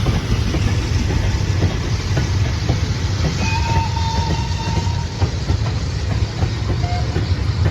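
Railway train rolling along the track: a steady low rumble with repeated clicks of wheels over the rail, and a brief thin steady squeal about three and a half seconds in and again, shorter, near the end.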